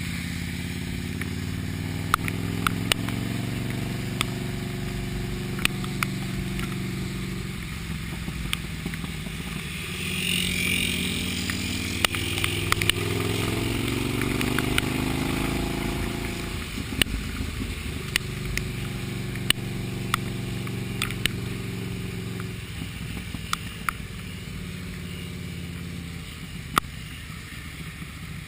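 A Midnight motorcycle's engine running while riding, with wind and road noise. Its pitch rises as it accelerates in the middle, then drops back as the throttle eases. Short sharp ticks come through every few seconds.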